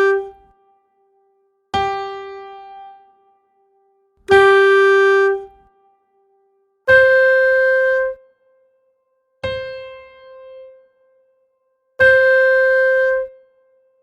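Single practice notes played one at a time with pauses between: held notes about a second long alternate with shorter notes that fade away. The pitch stays on G for the first notes and moves up to C about seven seconds in.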